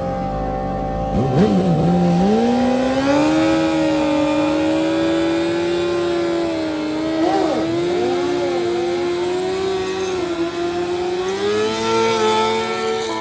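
Motorcycle engine running at high revs, its pitch held steady for long stretches; it dips briefly about a second and a half in, climbs back, and rises again near the end.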